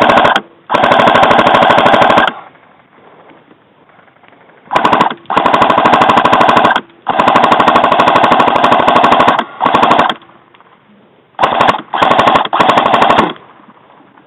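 Airsoft gun firing on full auto in a string of bursts, the longest about two seconds, loud and close.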